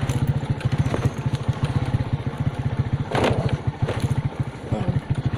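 Motorcycle engine running steadily with a fast, even low pulse. A couple of sharp knocks and rattles come past the middle.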